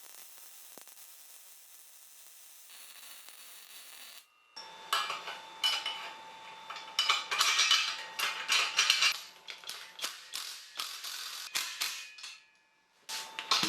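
Irregular clinking and clattering of small metal parts being handled, starting about four and a half seconds in and stopping briefly near the end, with a faint steady tone underneath.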